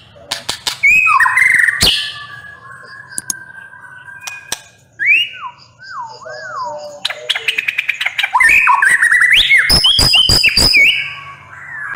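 White-rumped shama (murai batu) singing a loud, varied song of whistled phrases, some notes sliding up and down. About two thirds through comes a dense run of sharp, rapid clicking notes mixed with the whistles.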